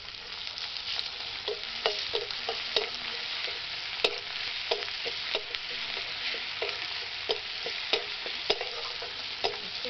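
Sliced onions and bay leaves frying in hot oil in a metal kadai, a steady sizzle, as a metal spatula stirs them, scraping and tapping against the pan every second or so. The onions are browning to a reddish colour.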